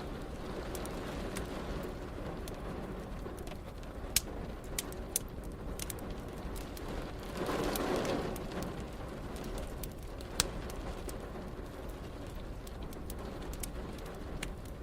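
Steady rain with a wood fire crackling over it: a few sharp pops, the loudest about four seconds in and again about ten seconds in. Halfway through comes a brief louder rushing swell.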